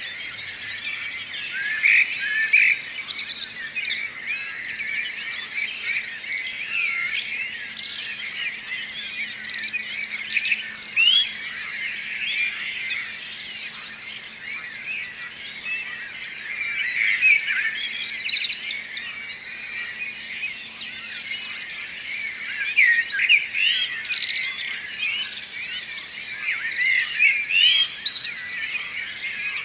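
Morning chorus of many songbirds singing and chirping at once, the short calls overlapping densely, with louder individual chirps standing out now and then.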